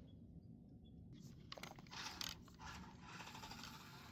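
Faint mechanical whirring and clicking from a small brushed 1/24-scale RC short course truck's drivetrain as it drives, with a few brief clicks between one and two and a half seconds in.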